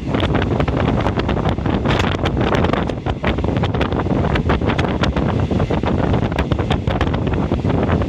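Passenger train running along the track, heard at an open carriage window: steady wind rush on the microphone over running rumble, with frequent sharp rattles and clicks from the car.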